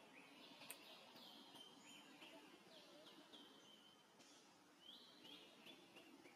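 Near silence: faint outdoor background hiss with faint, high, short bird chirps scattered through it, some dropping in pitch, and one faint click a little under a second in.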